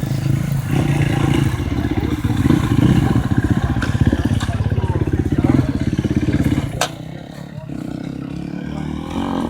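ATV engine running under throttle with a fast, pulsing note. About seven seconds in there is a sharp click and the engine drops to a quieter, lower running sound.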